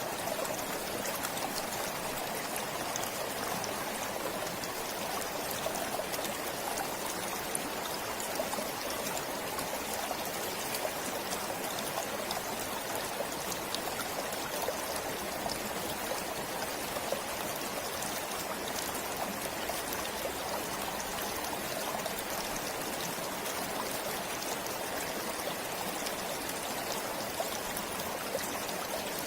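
A forest stream flowing steadily, with a constant rush of water and many small trickling splashes.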